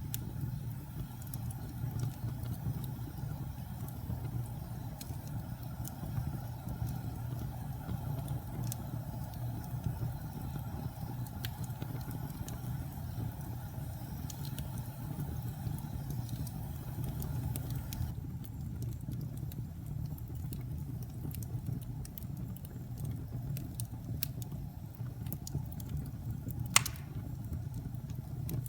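Wood fire burning in a fireplace: a steady low rumble with scattered small crackles and pops, and one sharper pop near the end.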